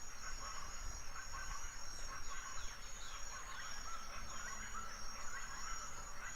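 Outdoor ambience of small birds chirping on and off over a steady high-pitched insect trill.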